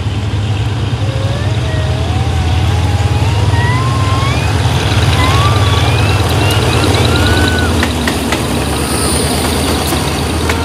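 A train running through a station, with a steady low engine hum. High, wavering squeals rise in pitch over several seconds.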